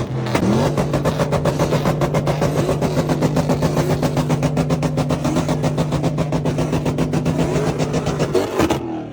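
Car engine held at steady revs, with a fast, even pulsing throughout, dropping off near the end.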